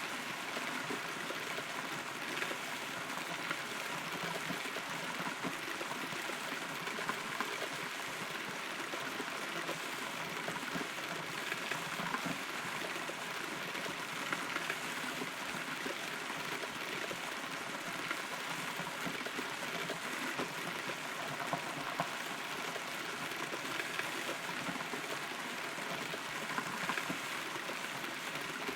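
Steady rain heard from inside a hollow rotten tree trunk: a constant patter of drops, with a few louder single drips here and there.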